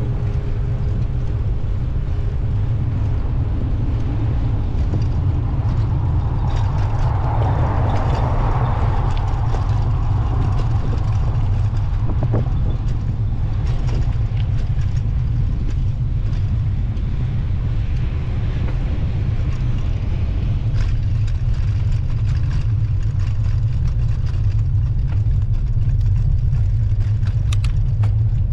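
Steady low wind rumble on the microphone of a moving bicycle, with street traffic underneath and a swell of louder traffic noise about a quarter of the way in.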